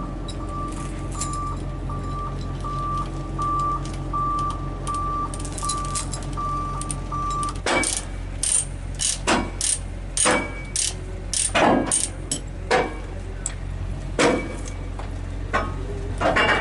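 Hino 500 FM320TI truck's diesel engine running steadily under a repeating electronic beep, about two a second, that stops about halfway through. After that come a dozen or so irregular sharp metallic clanks and knocks.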